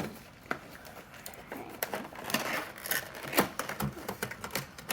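Irregular clicks, taps and rustles of a boxed model airplane's cardboard box and plastic packaging being handled, with a few sharper knocks.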